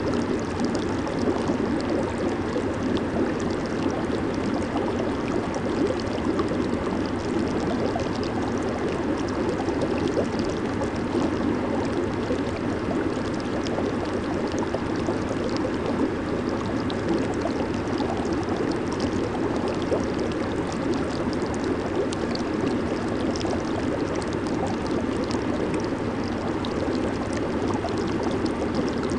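Jacuzzi water bubbling and churning steadily from the jets and air bubbles, a dense even rush of water with fine crackle on top.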